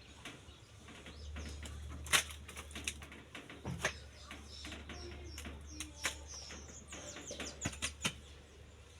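Scattered knocks and rustles from cowshed cleaning work, over a steady low rumble, with a few faint bird chirps in the middle.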